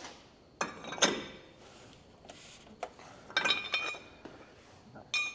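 Steel hand tools clinking and knocking on a truck's front wheel hub and hub nut: a handful of sharp metallic strikes, each ringing briefly, with a cluster of quick clinks midway.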